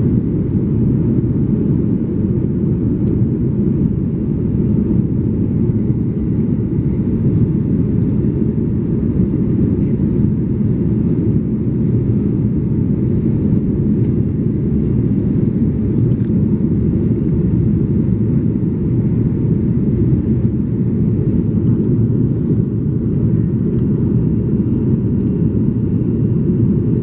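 Airbus A330-300's Rolls-Royce Trent 700 jet engines during takeoff and climb: a steady low roar that does not change.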